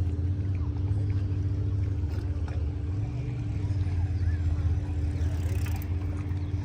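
An engine running steadily with an even low hum and no change in speed.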